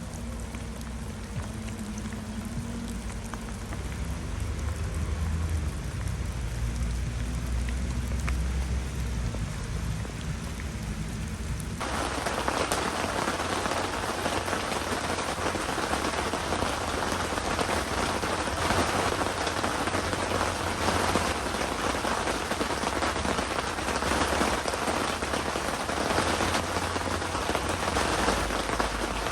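Heavy typhoon rain pouring steadily, with a low rumble under it at first. About twelve seconds in, the rain abruptly turns louder and hissier.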